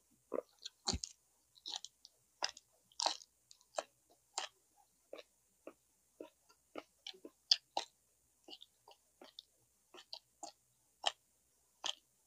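A person chewing a mouthful of braised pork leg and rice close to the microphone: irregular short wet smacks and clicks, about one or two a second, with silence between them. The loudest smack comes about seven and a half seconds in.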